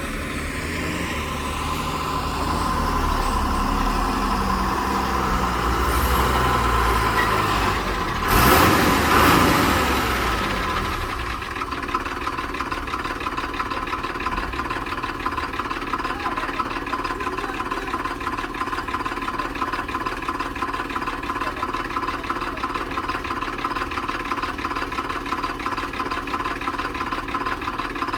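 Heavy diesel engine running under load, with a loud rushing hiss a little past a third of the way in, then settling to a steady idle with an even, rapid beat.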